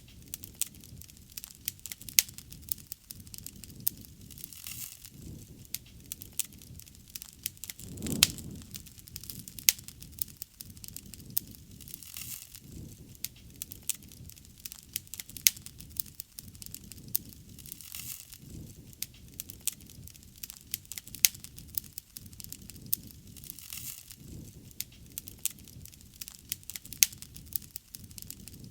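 Wood fire crackling, with frequent sharp pops over a low rumble of flames. A louder low swell comes about eight seconds in.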